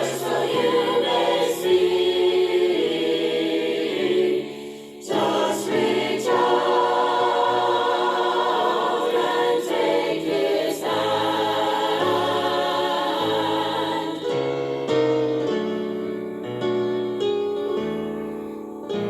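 A group of voices singing a gospel song with piano accompaniment. The singing drops away briefly about five seconds in, and near the end the piano comes forward.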